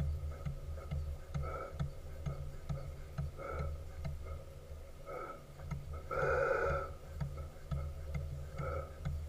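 Steam launch engine running, its low beat ticking steadily at about three to four strokes a second. A short rushing sound recurs about every two seconds, and a longer, louder one comes about six seconds in.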